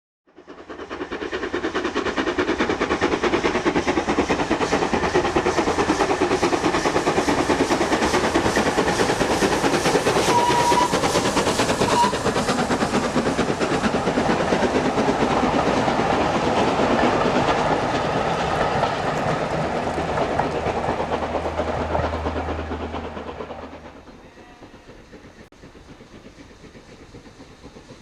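Two steam locomotives double-heading a train up a steep 1 in 49 gradient, working hard with fast, dense exhaust beats and wheels clattering over the rails. A brief whistle note sounds about ten seconds in, and the sound falls away sharply near the end.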